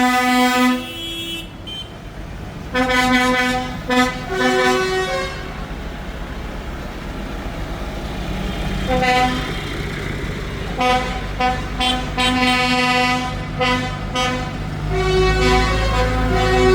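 Vehicle horns, most likely on the tractors of a passing tractor run, tooting in repeated short and long blasts at two pitches. Diesel engines run underneath, and their rumble grows louder near the end.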